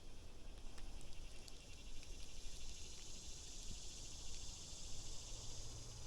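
Faint outdoor ambience: a steady high insect drone that swells a couple of seconds in, with a few light ticks and a low hum coming in near the end.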